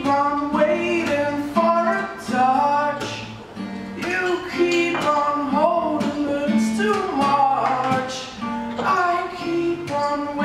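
Live acoustic song: an acoustic guitar strummed in a steady rhythm under a singing voice holding and sliding between notes.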